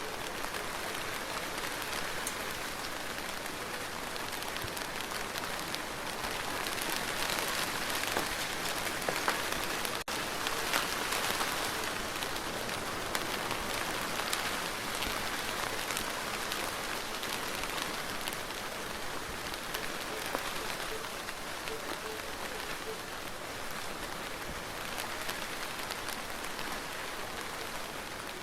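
Steady rain falling on a surface, a dense patter of drops that swells a little heavier for a few seconds partway through.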